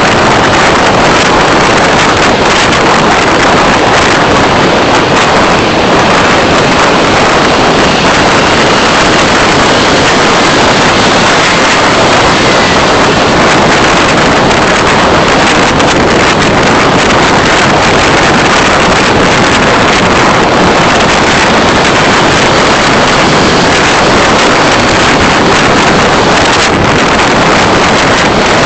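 Steady, loud rushing of wind and road noise picked up by a vehicle's driving-recorder microphone while driving, with no distinct engine note or other events standing out.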